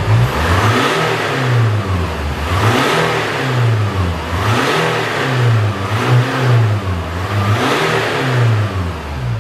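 Land Rover Discovery's engine revved repeatedly while stationary, about six times, each rev rising and falling back every second and a half or so. The revs come from pressing the electronic ring accelerator fitted over the steering wheel.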